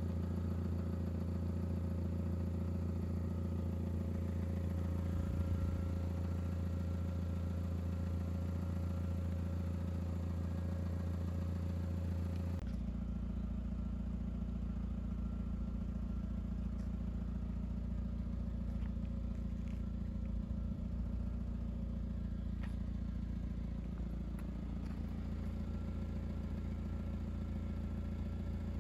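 Audi TT's 1.8-litre turbocharged four-cylinder engine idling steadily. About twelve seconds in, its low hum abruptly shifts lower.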